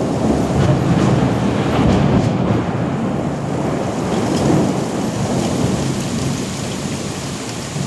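Thunder rumbling on and on, low and continuous, over steady rain, with no sharp crack, easing slightly toward the end.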